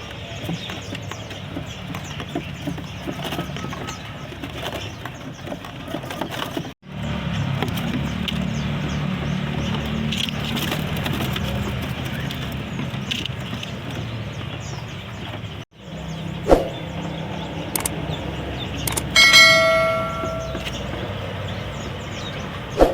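Caged songbirds chirping at a bird shop over a steady background hum of traffic and shop noise, with a couple of sharp knocks. Near the end a short, loud, pitched tone lasts about a second.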